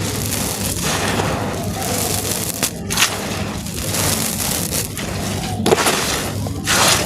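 Dry, stony chunks crumbling and crunching on a hard floor: a steady gritty crackle broken by a few louder cracks as pieces snap.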